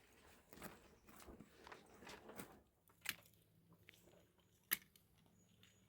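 Faint crunching and biting of someone eating, with scattered sharp clicks, busier in the first half and one louder click about three-quarters of the way through.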